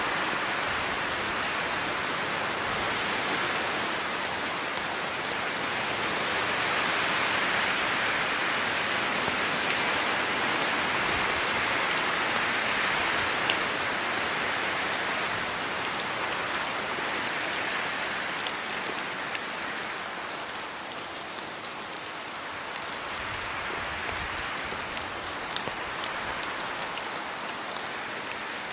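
Steady rain falling in a yard, a dense even hiss with scattered sharp drop ticks, slowly growing heavier and then easing a little.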